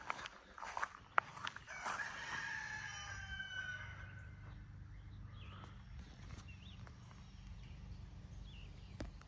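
A rooster crowing once, one long call of nearly two seconds that falls slightly at the end. Before it come a few light footsteps and rustles, and near the end there are faint small bird chirps.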